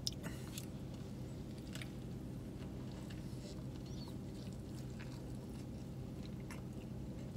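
A person chewing a mouthful of burger, with a few faint, soft, wet clicks over a steady low hum.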